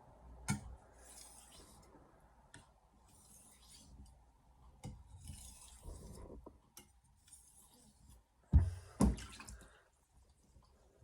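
Knife blade being stroked across a wet 1000-grit soaking whetstone: a hissing scrape with each pass, about six strokes at a steady pace. Two heavy knocks come close together about two-thirds of the way in.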